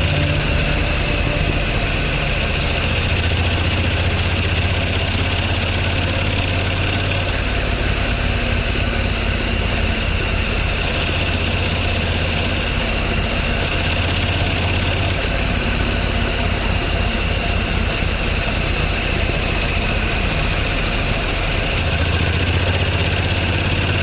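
An engine running steadily, its low note shifting every few seconds.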